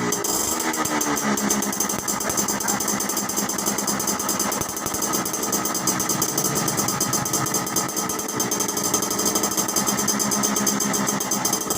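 Two-stroke Yamaha Alfa motorcycle engine running steadily at idle through an aftermarket racing exhaust with a silencer insert, a crisp, dry 'ngencring' two-stroke exhaust note, its pitch wavering slightly.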